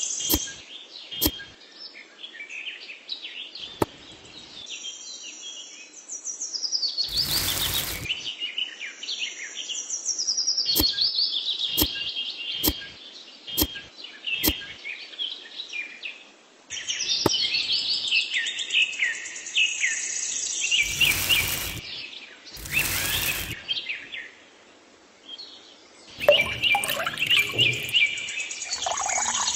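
Small birds chirping and singing continuously, with scattered sharp clicks. Three short bursts of rough noise, about a second each, come about a quarter of the way in and twice close together about two-thirds of the way in.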